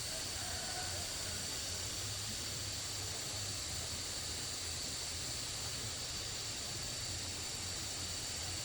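Steady rushing of water with a constant high-pitched hiss over it, unchanging throughout.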